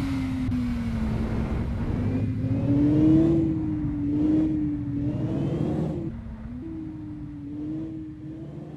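Heavy truck's diesel engine working under load, its pitch rising and falling with the throttle. It turns quieter and steadier about six seconds in.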